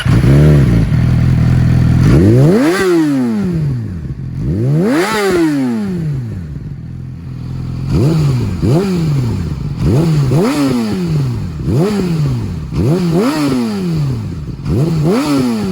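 2020 Yamaha R6's inline-four engine, breathing through a LeoVince LV-10 slip-on exhaust, idles for about two seconds and is then revved about ten times. The first two revs rise and fall slowly; the rest are quicker, sharper throttle blips.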